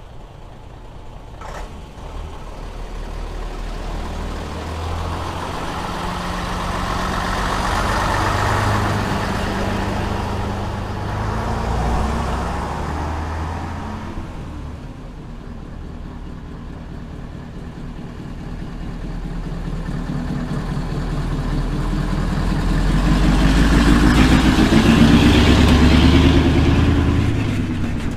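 Old Scania-Vabis Torpedo trucks driving past, their diesel engines growing louder and fading as each goes by. The loudest pass comes about twenty-five seconds in.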